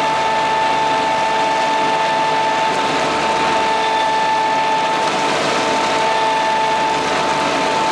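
Madvac ride-on vacuum with its Kubota D1105 three-cylinder diesel running at a steady speed. A strong steady high whine sits on top of the engine noise.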